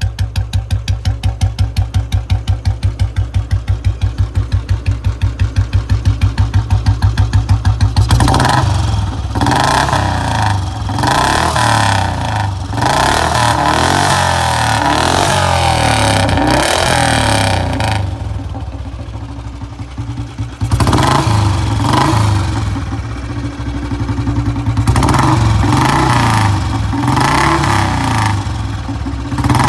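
Royal Enfield Bullet single-cylinder exhaust, first idling with a steady, even thump, then, after an abrupt change about eight seconds in, revved repeatedly in rising and falling surges.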